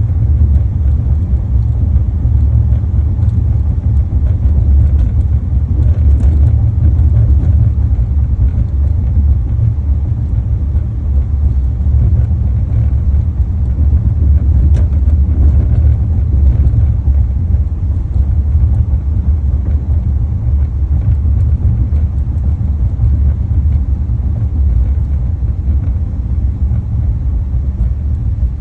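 Steady low rumble from a Volkswagen ID.4, with a few faint clicks from a door that still clicks after the second recall repair.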